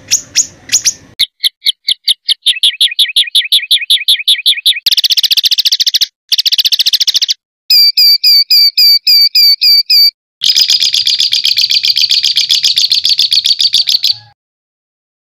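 Songbird tutor recording of harsh 'shot' phrases: a run of loud, fast repeated high notes in separate abruptly cut bursts. A quick series of about ten notes a second gives way to a slower one of about four a second, then a long very fast rattling trill that stops about a second before the end.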